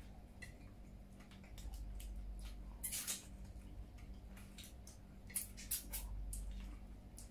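Close-up eating sounds from two people: wet chewing and small lip-smacking clicks, loudest about three seconds in and twice between five and six seconds, over a faint steady hum.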